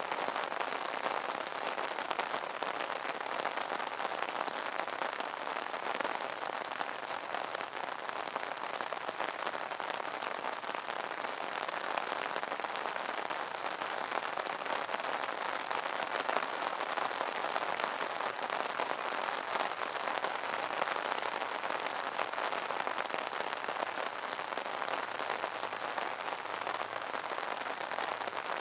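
Steady rain pattering on an umbrella canopy, a dense even patter of countless small drop ticks that neither builds nor fades.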